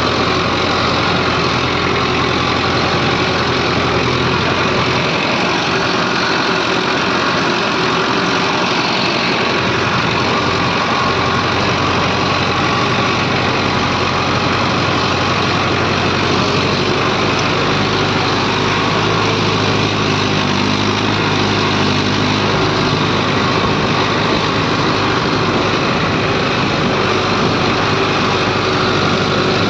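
Heavy diesel machinery engine running steadily at a constant loudness, its low note shifting slightly a little past halfway.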